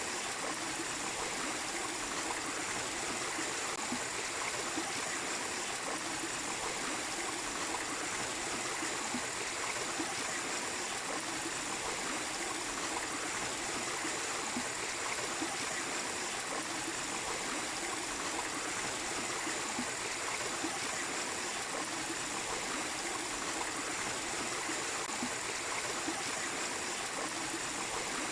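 Small waterfall with water running and splashing steadily, an even rushing sound. A thin, steady high-pitched tone sits above it.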